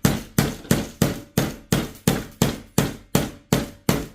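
Hammer driving a nail into a glued wooden beehive joint, a steady run of sharp strikes at about three a second.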